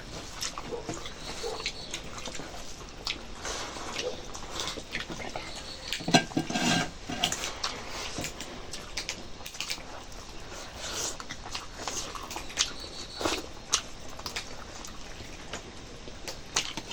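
Close-miked eating sounds: chewing mouthfuls of rice and local chicken curry, with scattered small clicks from the food and plate, and a louder burst about six seconds in.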